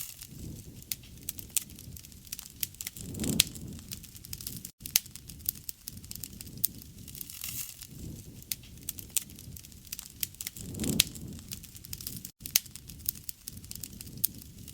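Wood fire burning, crackling with frequent sharp pops and snaps. About three seconds in, and again about eleven seconds in, the flames swell with a low rushing sound.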